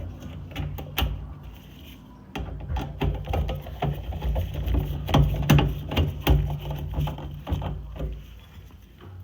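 Metal furnace parts and screws being handled and fitted back into place, a run of clicks, taps and knocks that is busiest through the middle, over a steady low hum.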